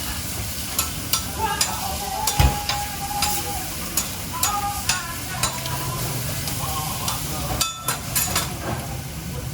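Food sizzling in a hot pan while a utensil stirs it, with sharp clicks and knocks of the utensil against the pan every second or so, the loudest about two and a half seconds in.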